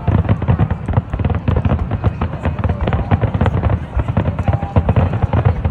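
Fireworks barrage: a dense, unbroken run of bangs and crackles, many a second, heavy in the low end.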